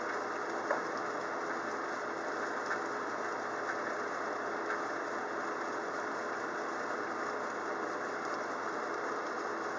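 Steady rain falling as the storm eases: an even hiss with a few faint taps, over a low steady hum.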